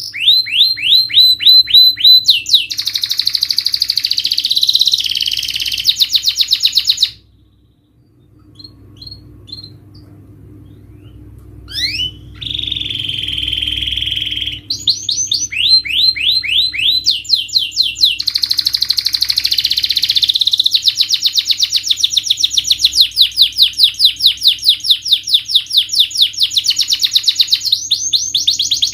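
Domestic canary singing long rapid trills of repeated sweeping notes. About seven seconds in the song breaks off and is nearly quiet for a few seconds, with only scattered faint notes. It then resumes with a held buzzy note and more fast rolling trills, over a faint low hum.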